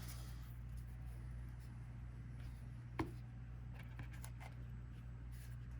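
Faint rustling and light taps of trading cards being handled and sorted, with one sharper click about three seconds in, over a steady low electrical hum.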